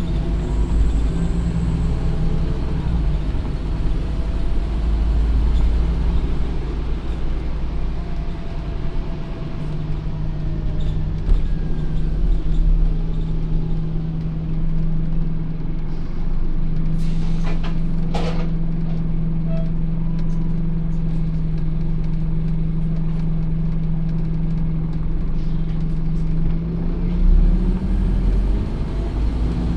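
Scania OmniCity N230UD double-decker bus running, its five-cylinder diesel droning at a steady pitch for long stretches. Two brief sharp sounds come about halfway through.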